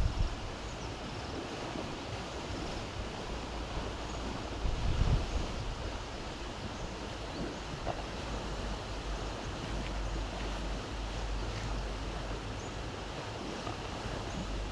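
Steady outdoor rushing noise, with low rumbling gusts of wind buffeting the microphone, strongest about five seconds in.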